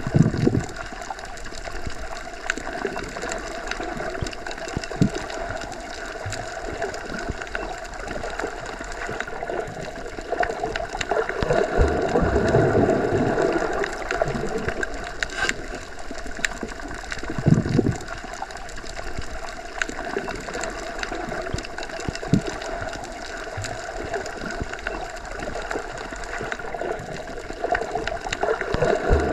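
Underwater ambience: a steady watery hiss with faint scattered clicks, swelling into a low rush of moving water about twelve seconds in and again briefly near eighteen seconds.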